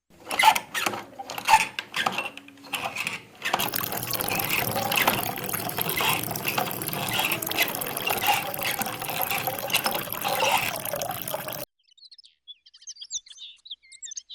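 Water splashing and pouring from a small DIY water pump: a few irregular splashes at first, then a steady gush for about eight seconds that cuts off suddenly. Faint bird chirps follow.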